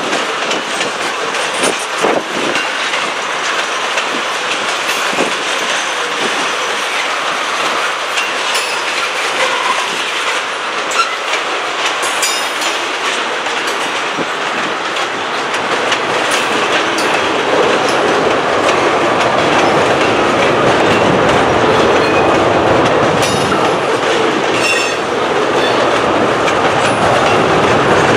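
Freight train of tank cars rolling past: steady rumble and rattle of steel wheels on rail, with clacks over the rail joints, growing louder a little past halfway.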